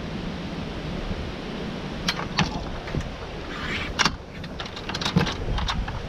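Steady low rumble of wind, with a run of sharp clicks and rattles starting about two seconds in.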